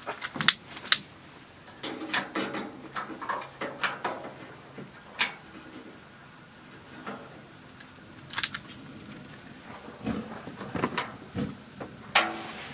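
Irregular clicks and knocks from working the controls of a three-burner propane heater while its burners are lit. A faint high steady tone comes in about halfway through.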